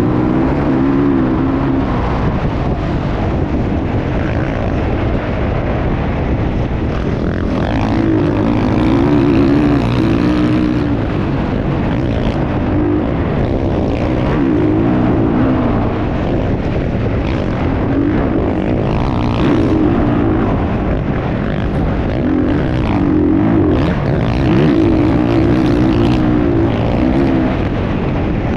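Motocross bike engine running loud and continuous, its pitch rising and falling again and again as the throttle is worked.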